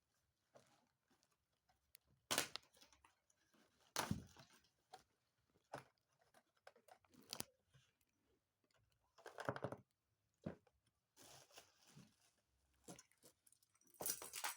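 New hand tools and their packaging being handled: scattered rustling, tearing and knocks, loudest about a quarter of the way in and again near the end.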